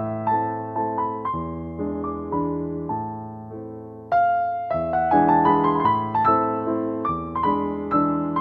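Solo piano music, slow notes struck and left to ring out; the playing dies away about three seconds in, then starts again louder about a second later.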